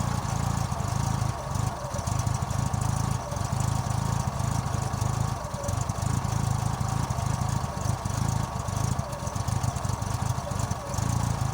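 A car engine running rough just after a cold start without a choke, its idle sagging and picking up unevenly as the throttle is fed in small amounts to keep it from stalling. The unevenness is the sign of a cold engine, not a fault.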